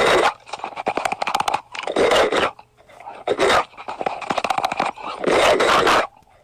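Loud close-up crunching and chewing, coming in repeated bursts of crackling clicks with noisy stretches between them.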